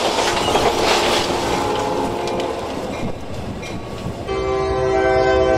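Metra diesel commuter train rushing past just after hitting an SUV at a grade crossing: a dense rushing rumble with scattered sharp clanks and rattles. At about four seconds in, its air horn sounds a loud, steady chord.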